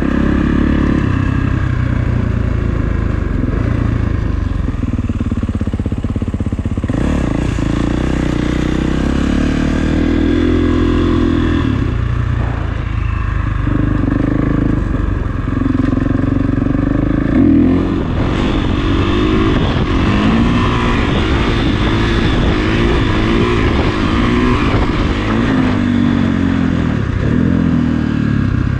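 Kawasaki KX450 dirt bike's single-cylinder four-stroke engine running under way, its revs rising and falling over and over as the throttle is worked, with the quicker swings in the second half.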